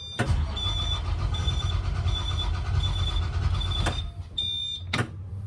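Blue Bird All American school bus engine turning over on its starter for about four seconds without starting, opening and closing with a sharp click, while a dashboard warning buzzer beeps about every 0.7 s. It is a no-start that the owner takes to be fuel-related.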